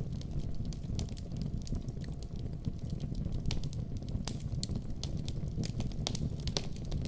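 Wood fire in a fireplace crackling: a steady low rumble of the flames with irregular sharp pops and snaps, several a second.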